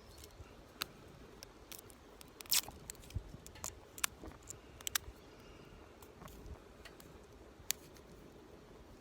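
A scatter of light, irregular clicks and taps, as of small hard objects being handled, the loudest about two and a half seconds in.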